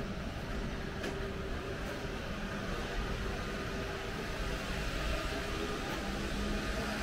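Steady low hum and rumble of a train standing at the platform, with a few faint steady tones over it.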